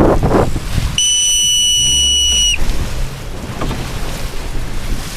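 One long, steady, high-pitched whistle blast of about a second and a half, starting about a second in and dipping slightly in pitch as it stops, over wind buffeting the microphone.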